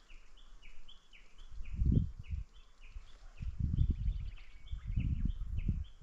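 A bird calling over and over with short, high, slightly falling notes, about two to three a second. Gusts of low rumble on the microphone come and go, loudest about two seconds in and again around four and five seconds.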